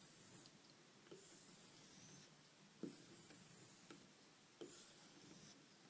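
Opinel No. 8 knife blade stroked along a homemade strop charged with compound: faint, even rubbing strokes, one about every second and a half to two seconds, with a light tick between strokes as the blade turns over. This is the stropping that finishes and refines the edge after sanding.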